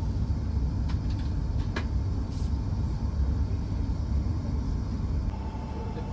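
Steady low rumble of a Hokuriku Shinkansen train running at speed, heard inside the passenger cabin, with a couple of light clicks in the first two seconds.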